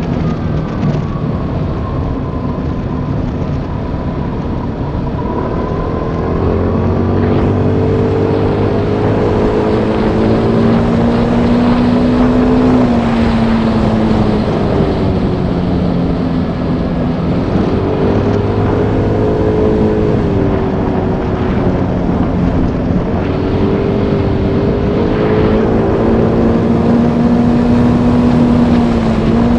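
Motorbike engine running on the move, its pitch climbing and then dropping sharply several times as the bike speeds up and eases off.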